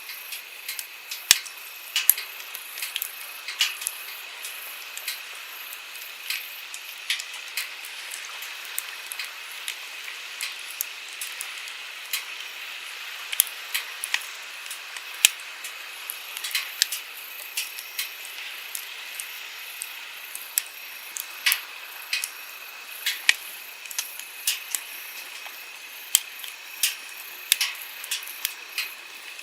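Wood campfire crackling with frequent sharp, irregular pops over the steady rush of a flowing stream.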